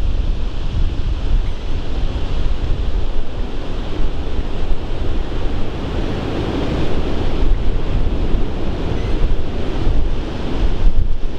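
Strong wind buffeting the microphone in a loud, steady rush of wind noise, driven by a violent tornado at close range.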